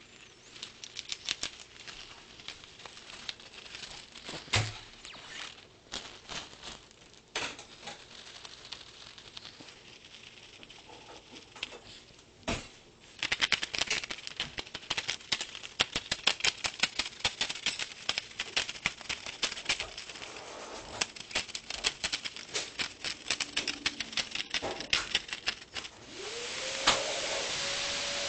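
Lovebird working at nesting strips with its beak: a long run of small, quick clicks and crinkles that gets busier about halfway through, with a wing flutter or two. Near the end a steady hiss and a rising hum set in.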